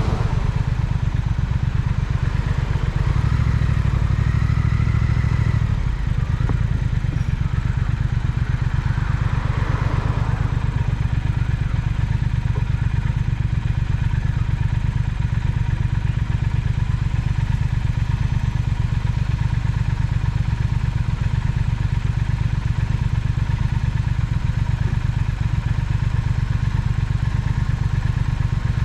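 Triumph Speed Twin parallel-twin engine running under way, a little louder for a few seconds near the start, then holding a steady cruise.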